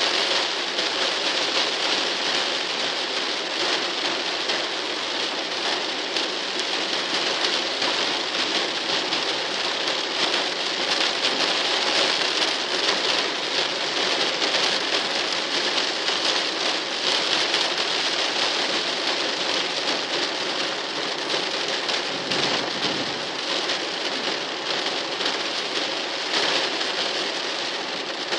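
Rain falling steadily: an even hiss of many fine drops, unchanging in strength.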